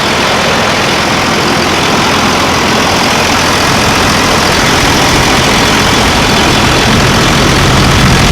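Freshly installed 24-valve Cummins 5.9 L turbo-diesel in a 2002 Dodge Ram running at a steady idle, growing a little louder over the last few seconds.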